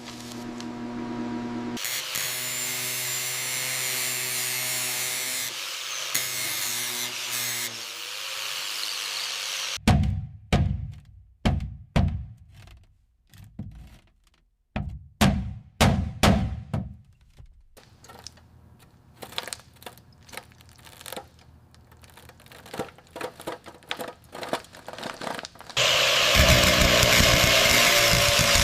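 A power tool running steadily, then a run of loud knocks and thuds with quieter clicks between them, then a power tool starting up loud again near the end.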